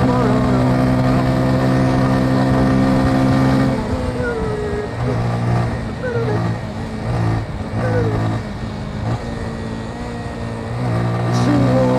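Motorcycle engine running at a steady cruising speed. About four seconds in it eases off and runs unevenly at lower revs for several seconds, then pulls steadily again near the end.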